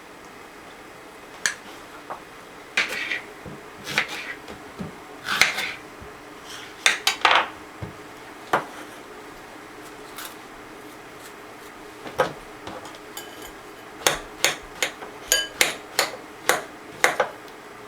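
Dishes and cutlery clinking and knocking as they are handled: scattered clinks and scrapes, then a quick run of sharp clinks near the end.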